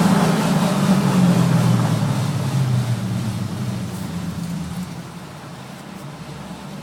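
2006 Audi S4 (B7) 4.2 V8 running through custom downpipes and a Milltek exhaust, echoing in an enclosed parking garage. The note is loud at first, then dies down about halfway through to a quieter, steady run.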